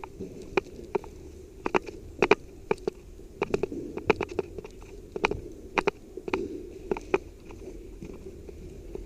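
Footsteps crunching through dry leaves and brush: a run of sharp, irregular cracks, a few a second, that thin out near the end.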